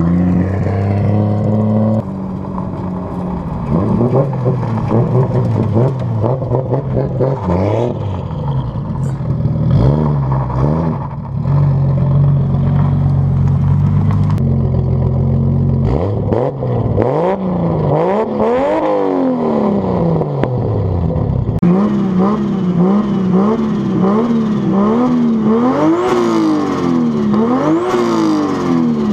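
Nissan S14's swapped 1JZ-GTE turbocharged straight-six being revved while parked: held fairly steady for a stretch, then swept up and down in a few long revs, then a run of quick throttle blips near the end.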